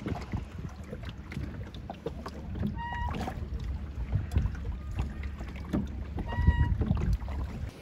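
A boat's motor runs with a steady low rumble, with wind on the microphone. Two short high calls sound, about three seconds in and again near the end.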